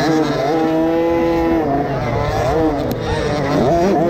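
50cc motocross bike engine at racing revs, its pitch holding high, then dropping as the throttle comes off and climbing again, a few times over.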